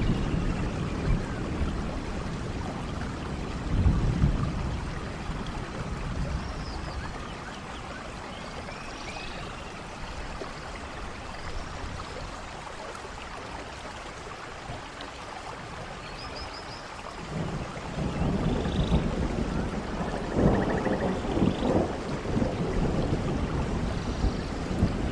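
Steady rain with rolling thunder. The rumble swells about four seconds in, eases off, then builds again and grows louder over the last third. A few faint high chirps sound now and then.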